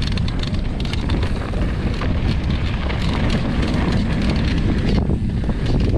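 Steady wind rush on the microphone of a mountain biker riding a downhill trail at speed, with the bike rattling in many short clicks over rough dirt.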